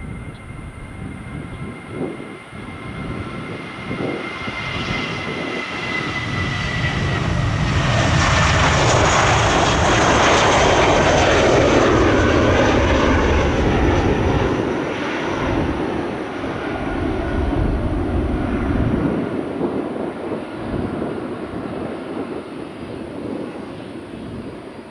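Jet airliner's engines passing by: the noise swells to a peak about ten seconds in and then slowly fades, with a high whine early on that slides down in pitch.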